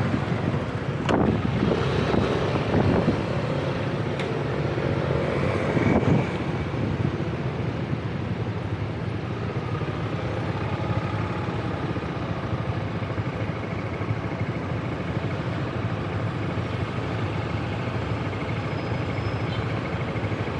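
Road traffic of motor scooters and cars running, busier and a little louder in the first six seconds with short rising engine notes, then settling to a steady traffic noise.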